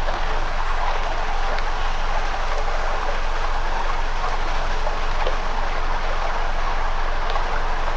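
Campfire burning: a steady hiss of flames with a few sparse, sharp crackles.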